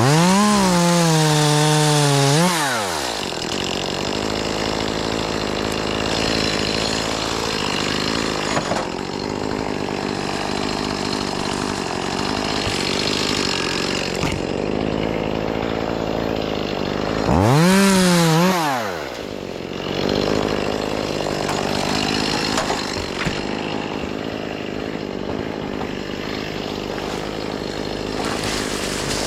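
Chainsaw revved up twice, for a couple of seconds at the start and again briefly about two-thirds of the way in, with engine noise running steadily between the revs.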